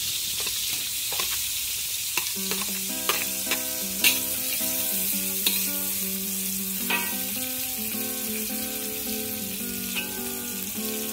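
Minced garlic and chopped onion sizzling in hot oil and butter in a metal wok, with a metal spatula scraping and clicking against the pan as they are stirred. Soft background music with held notes comes in about two seconds in.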